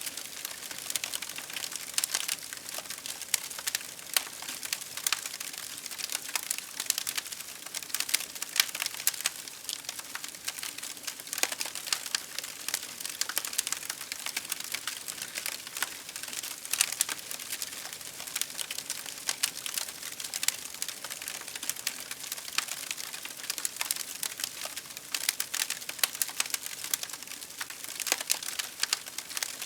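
Wood fire crackling in a fireplace: a steady stream of irregular sharp pops and snaps over a faint hiss of burning.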